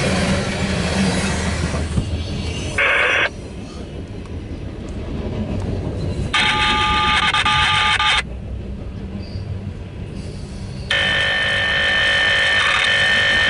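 Loaded coal train's hopper cars rolling past with a steady rumble. Three loud bursts of steady electronic tones mixed with hiss start and stop abruptly over it, the last one lasting about three seconds near the end.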